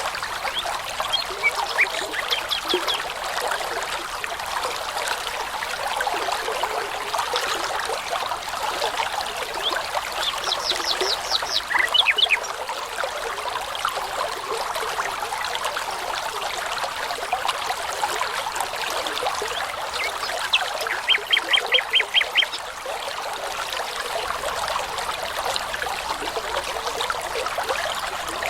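Babbling brook running steadily, with a songbird three times singing short phrases of quick repeated high notes, the loudest near the end.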